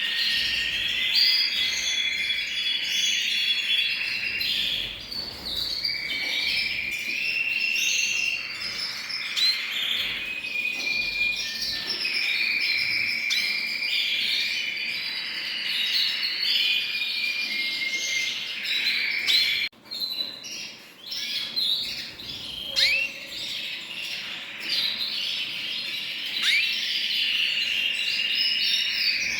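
A chorus of many songbirds singing at once: dense, overlapping chirps, trills and short whistles, with a brief dip about two-thirds of the way through.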